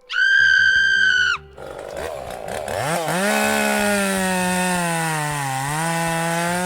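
A high steady tone lasting about a second and a half, then a chainsaw engine revs up about three seconds in and runs steadily, dipping slightly in pitch near the end.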